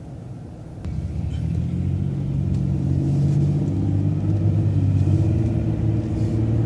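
Transit bus engine accelerating, heard from inside the bus: the drone comes up sharply about a second in, climbs a little in pitch, then holds steady.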